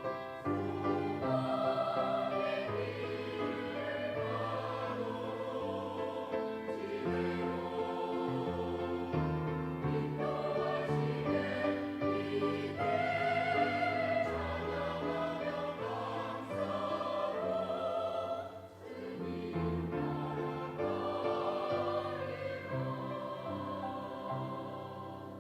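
Church choir singing a sacred anthem in parts over a sustained instrumental accompaniment, with a brief breath-like dip about eighteen seconds in.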